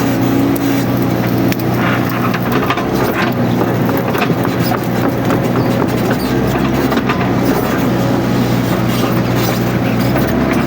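Mini excavator's diesel engine running steadily while working, with scattered clicks and knocks over it.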